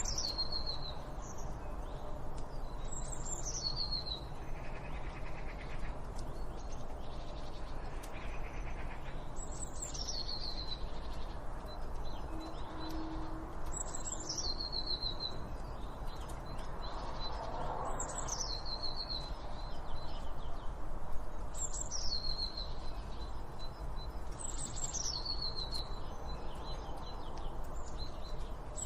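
A songbird repeating the same short song phrase about seven times. Each phrase starts high and falls in steps to a lower pitch, over steady background noise.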